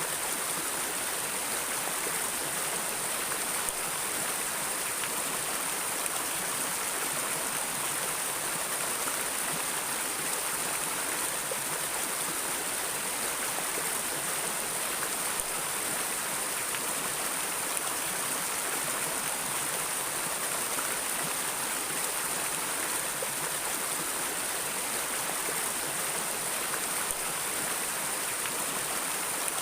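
Flowing stream water rushing steadily, an even hiss with no pauses.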